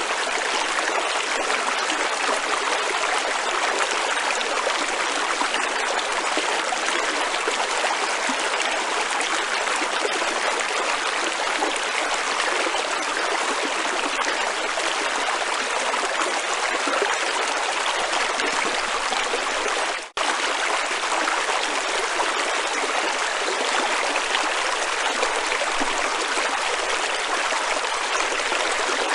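Stream water running, a steady even rush with a momentary break about two-thirds of the way through.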